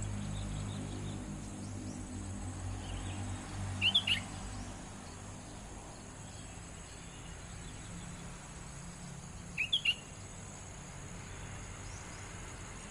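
A young jabrik songbird giving two short bursts of quick, high chirps, three notes about four seconds in and two or three more near ten seconds, over a steady high hiss.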